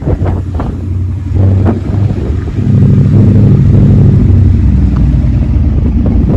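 A car engine running close by, with a deep steady note that gets louder about halfway through.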